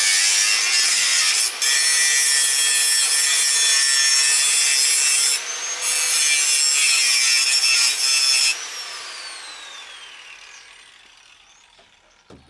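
Angle grinder cutting off the nubs on a steel fence post: a loud, high-pitched grinding with two short breaks between cuts. About eight and a half seconds in it is switched off, and its whine falls in pitch and fades as the disc spins down.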